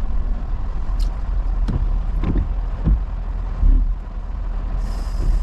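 Diesel pickup truck heard from inside the cab while creeping along at walking pace: a steady low engine and road rumble with a few knocks and rattles, and a brief hiss near the end.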